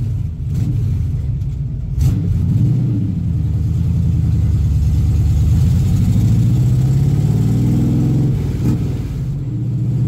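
A 1969 Camaro's 307 small-block Chevy V8 pulling away under load through its four-speed manual, heard from inside the cabin. The revs climb steadily for several seconds, then drop at a gear change near the end.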